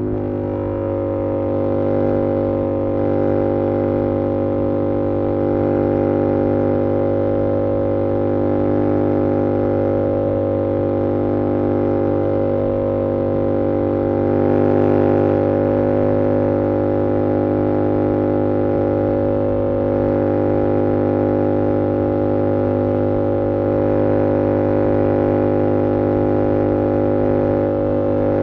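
2022 Yamaha R7's 689cc parallel-twin engine through an SC-Project CR-T exhaust, held at steady revs with an even drone and a slight swell in loudness about halfway through.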